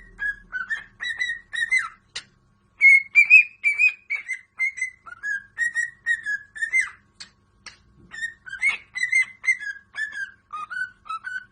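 A pet parrot whistling a long run of short, clear notes, about two or three a second, some sliding up or down in pitch, with a brief pause about two seconds in.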